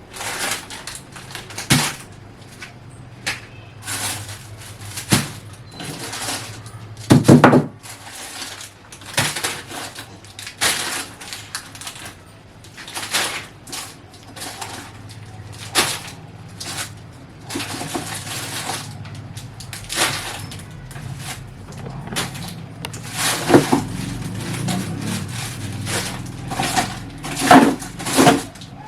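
Irregular knocking and clattering of hard objects being handled and moved, dozens of separate knocks at uneven intervals, with a low rumbling noise under them in the second half.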